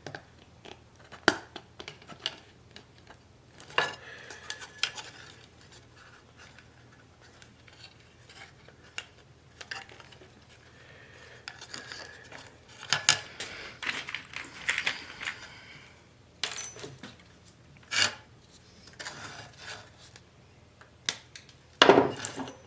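Metal parts and tools being handled: irregular clinks and knocks with scraping and rubbing in between, the loudest knock near the end.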